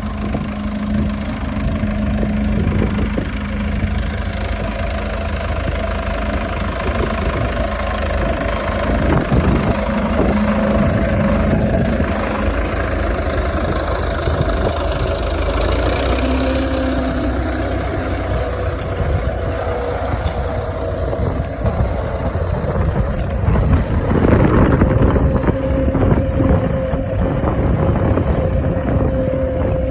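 Fordson Model N tractor fitted with a Fordson Diesel Major four-cylinder diesel engine, running steadily at low speed. It gets louder and rougher for a few seconds near the end.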